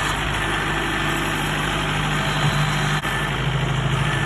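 Kubota 70-horsepower four-wheel-drive tractor's diesel engine running steadily at idle, with one short click about three seconds in.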